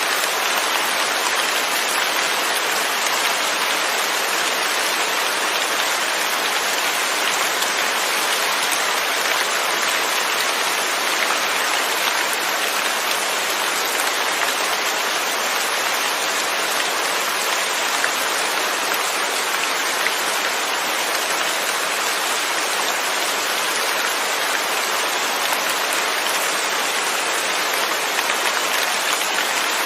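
Steady rain falling without thunder, an even hiss of drops with no breaks or surges.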